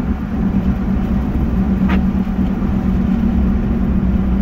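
Truck engine and road noise heard from inside the cab while driving, a steady low rumble with a constant hum. A brief click about two seconds in.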